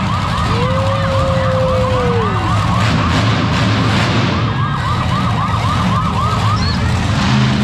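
A warbling electronic siren, its pitch rising and falling about five to six times a second, over a loud steady low rumble. A second, lower tone comes in about half a second in, holds for about two seconds, then slides down.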